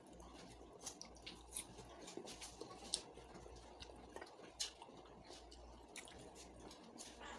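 Faint wet chewing of mango slices, with soft mouth clicks scattered throughout.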